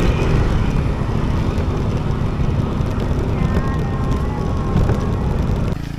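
Steady road noise of a moving vehicle, a constant rumble of engine, tyres and wind. It drops off suddenly near the end.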